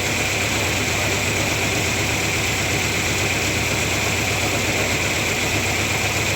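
1997 Ford Ranger's 2.3-litre four-cylinder engine idling steadily with a steady hiss above it, an idle the owner calls rough.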